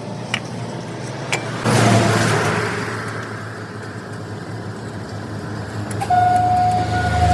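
Road traffic: engines running with a steady low hum, and a vehicle passing with a loud rush of noise about two seconds in. A steady high tone starts about six seconds in and holds.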